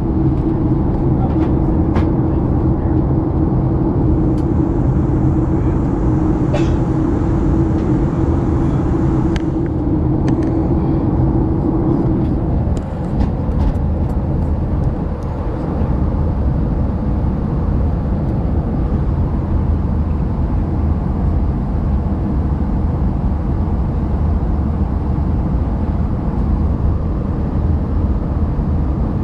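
Steady cabin drone of a Boeing 737-900ER on final approach: airflow and CFM56-7B turbofan noise, with a steady hum that stops about twelve seconds in and a few light clicks.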